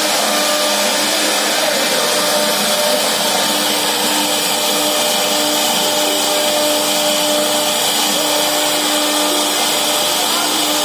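CNC router spindle running and cutting wood for a door design: a steady, unchanging hum over a continuous hiss.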